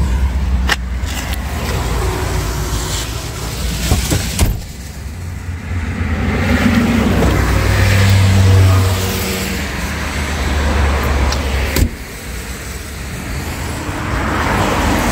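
Vehicle engine running, with a low steady hum that swells for a few seconds in the middle and traffic noise around it. Two sharp knocks, the first about four and a half seconds in and the second near twelve seconds.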